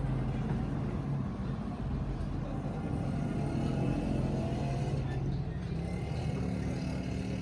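A vehicle engine running steadily, with a brief rising tone about four seconds in.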